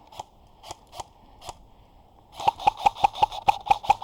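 Airsoft gun firing: a few single shots, then from a little past halfway a rapid string of sharp shots at about eight a second.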